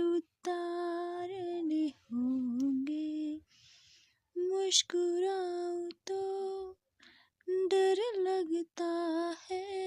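A woman singing a slow Hindi film song unaccompanied, in long, wavering held notes broken by short pauses and breaths.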